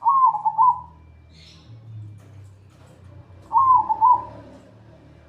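Zebra dove (perkutut) cooing: two quick warbling phrases of stepped up-and-down notes, one at the start and one about three and a half seconds in.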